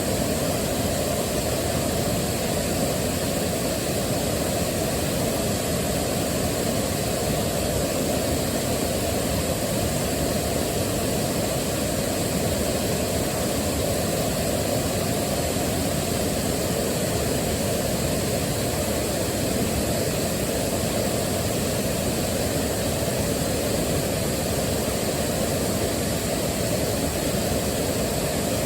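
Waterfall: a steady rush of falling water, heaviest in the deep range, unchanging throughout.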